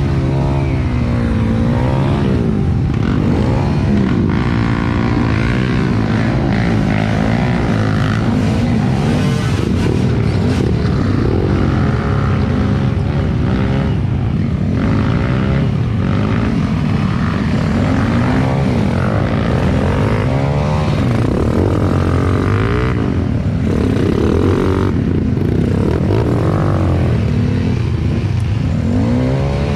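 Trail motorcycle engine revving up and down without a break as the bike is ridden off-road, the pitch rising and falling every second or two.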